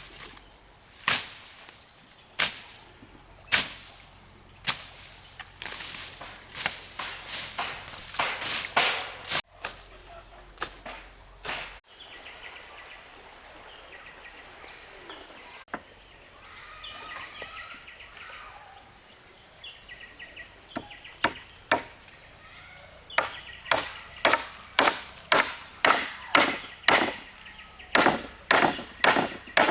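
Repeated sharp blows of a hand tool on wood, about one a second at first, then a denser run. About midway they pause and birds call, then a faster run of strikes comes near the end.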